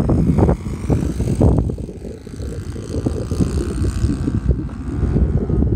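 Cessna 182 light aircraft in flight: its piston engine and propeller drone steadily, with wind buffeting the microphone and a brief dip in loudness about two seconds in.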